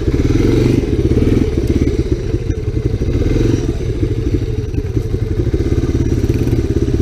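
Honda ATC three-wheeler engine running steadily under throttle, a rapid, even stream of firing pulses with some clatter.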